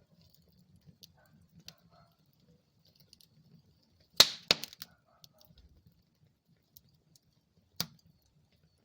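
Wood fire in a fireplace crackling over a faint low rumble of flames, with scattered small snaps. A loud burst of pops comes about four seconds in, and another sharp pop near the end.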